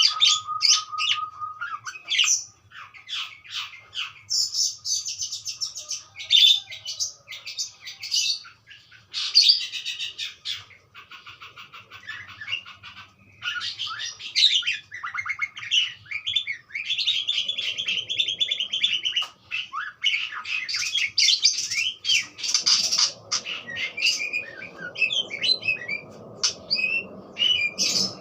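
Budgerigars chattering and warbling: a continuous run of quick chirps, squeaky trills and warbled phrases.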